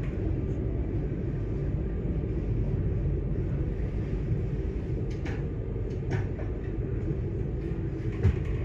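Train running on the rails, a steady low rumble heard from inside the carriage, with a few short high clicks about halfway through and a knock near the end.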